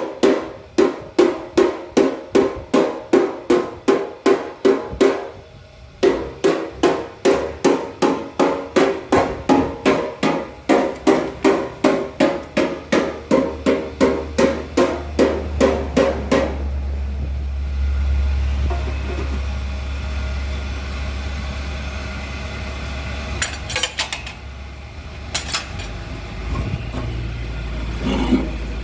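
Rapid, regular ringing metal strikes, about three a second, with a short pause about five seconds in; they stop about sixteen seconds in. A low, steady engine hum starts under them about nine seconds in and keeps running.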